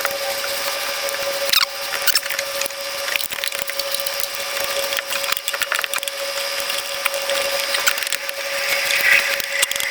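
Hand ratchet clicking in short irregular runs, with knocks and rustling, as spark plugs are worked loose in a cramped engine bay; a steady hum runs underneath.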